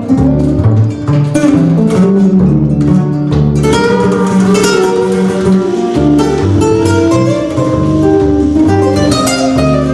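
A small live band playing instrumental music led by plucked guitar, flamenco in style: sharp strummed chords at first, then a flowing melody over low bass notes from about three and a half seconds in.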